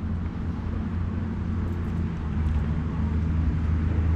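Steady low rumble of a vehicle driving, growing slightly louder.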